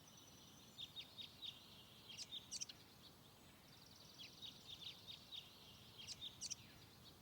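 Faint birdsong: a small bird singing quick, high chirping phrases in two bouts, one about a second in and another from about four seconds in, over a faint hiss.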